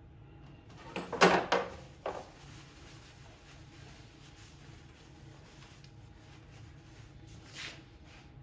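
A few sharp knocks of objects being handled, clustered about a second in with another at about two seconds and a softer one near the end, over a steady low hum.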